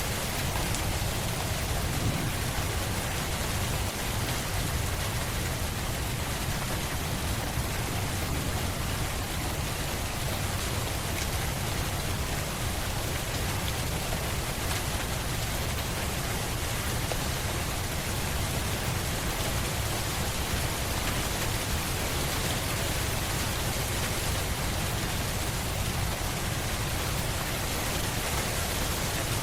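Steady, even rain falling, a continuous hiss with a low rumble beneath it.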